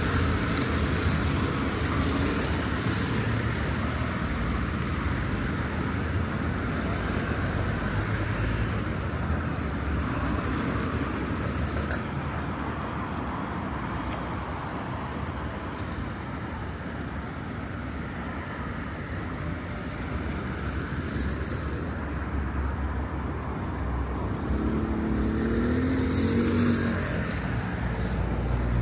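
Steady road traffic of cars and other motor vehicles passing through a busy street intersection. Near the end, one vehicle's engine rises in pitch as it accelerates.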